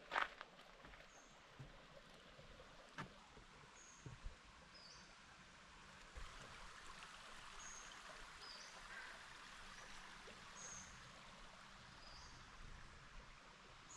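Faint forest ambience: a small bird gives short, high chirps about once a second over a soft steady hiss, with a few light ticks or snaps in the first few seconds.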